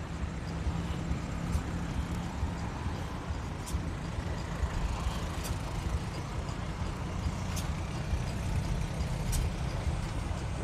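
Low, steady rumble of an old farm tractor's engine running, with a faint sharp click about every two seconds.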